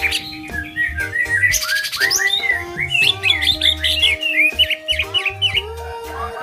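Green leafbird in full, loud song: a rapid run of short sweeping whistles and chirps, several a second, which includes mimicked cinereous tit (gelatik batu) phrases. Steady low tones run underneath.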